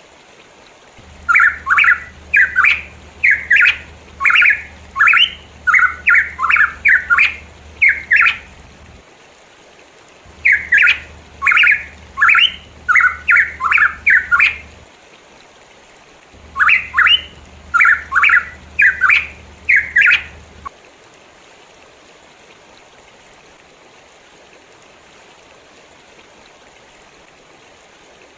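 Pitohui calling in three runs of short, harsh repeated notes, about two or three a second, that stop about two-thirds of the way through. A low hum lies under the calls and cuts off with them, leaving a steady faint hiss.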